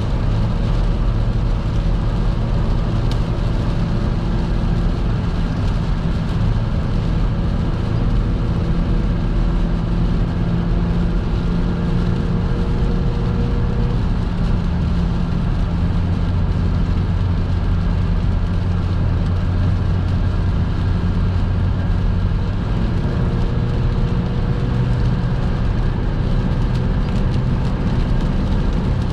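Car driving at motorway speed on a wet road: a steady low rumble of engine and tyres, with a faint humming tone that fades out about halfway through and comes back near the end.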